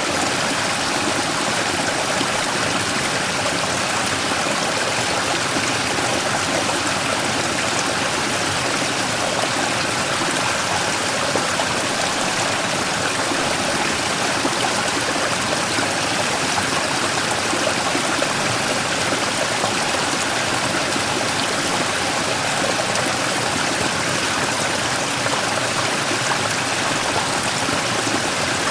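Mountain stream flowing steadily over and around a large rock, a constant rushing and splashing of water.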